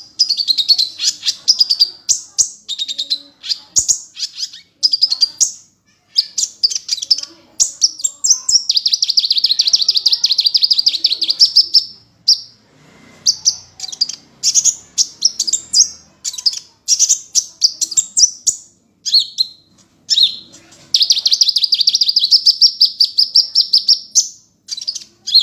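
Kolibri ninja sunbird singing a high-pitched song of quick, chattering phrases broken by two long, fast trills, one just after a third of the way in and one near the end.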